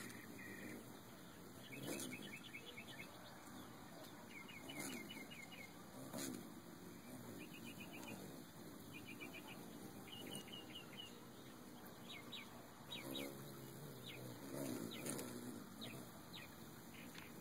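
Faint chirping in quick runs of short high notes that come back every few seconds, with a few brief whirs of hummingbird wings around the feeder and some soft knocks.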